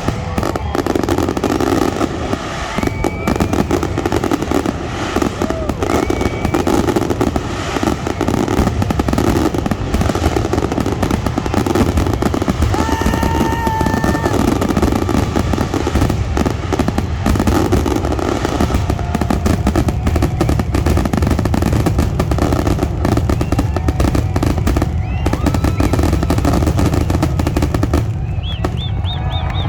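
Fireworks display: a dense, continuous barrage of bangs and crackling, with crowd voices underneath. The crackle thins out just before the end.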